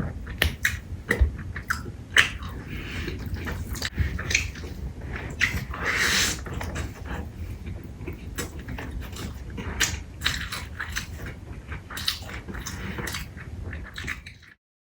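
A person eating close to the microphone: irregular wet chewing and biting with clicky mouth sounds and smacks. The sound cuts off suddenly near the end.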